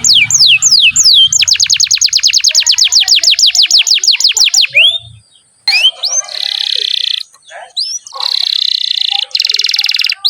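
Domestic canary singing. It opens with quick falling whistled notes, then a rapid even trill for about three seconds. After a short pause it goes into dense buzzy rolls.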